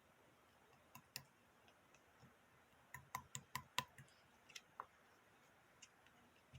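Aurora slime being pressed and worked by hand, giving sharp little clicks and pops: two about a second in, a quick run of about five around the middle, then a few scattered ones.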